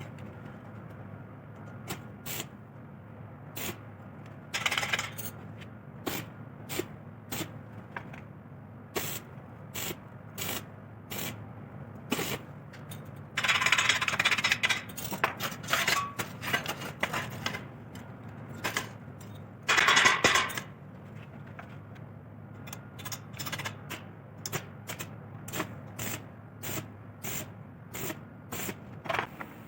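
Metal parts and hand tools clinking and tapping in quick, irregular knocks, with a few short scraping bursts, the longest about a third of the way in, over a steady low hum.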